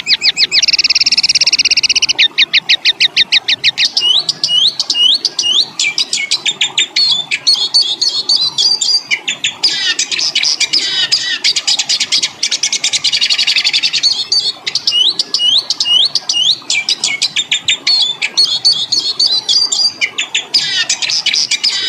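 Recorded songbird song of the harsh, rapid 'tembakan' type used as masteran tutoring material. It is a string of fast rattling trills and runs of sharp upswept notes, loud and high-pitched, changing pattern every few seconds with only short breaks.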